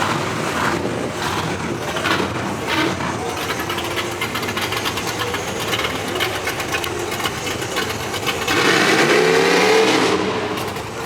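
Car engines running amid a noisy crowd, with one engine revving up louder about eight and a half seconds in.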